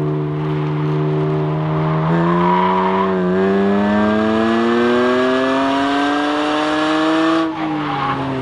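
BMW 330i ZHP's 3.0-litre inline-six under throttle. Its note holds steady at first, then climbs steadily in pitch for about five seconds as the car accelerates, and drops abruptly near the end.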